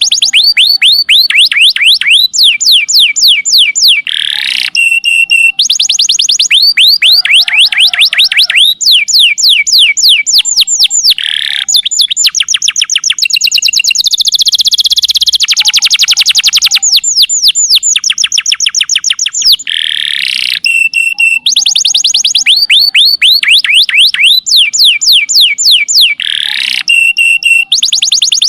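Domestic canary singing long, loud rapid-fire phrases of quick down-slurred notes, repeated over and over. A dense, sustained trill comes about halfway through. This is the 'nembak panjang' style of song that bird keepers play as a master recording to train other songbirds.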